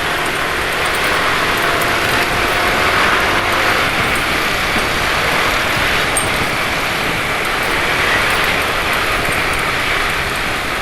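Steady road traffic noise: a continuous rush of vehicles and engines, with a faint engine drone in the first few seconds.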